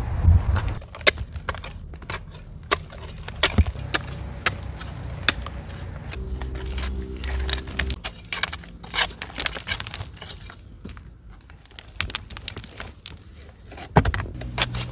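Irregular sharp snaps and knocks of wood, as sticks and branches are handled and broken, with a low hum from about six to eight seconds in.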